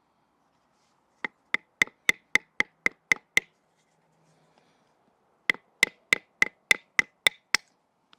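Batoning: a baton striking the spine of a Victorinox Ranger Swiss Army knife to drive its blade through a piece of wood and split it. The sharp knocks come at about four a second in two runs of eight or nine, with a short pause between them.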